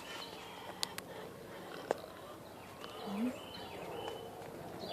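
A bird chirping: a quick run of high, repeated notes, each dropping in pitch, begins about three seconds in. A few sharp clicks come earlier.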